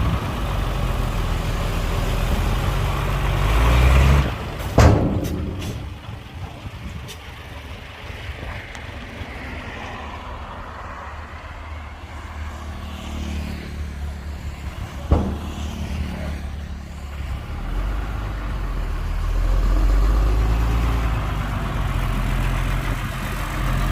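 Diesel dump truck engine running, louder around four seconds in and again near the end, with two sharp sudden sounds, about five and fifteen seconds in.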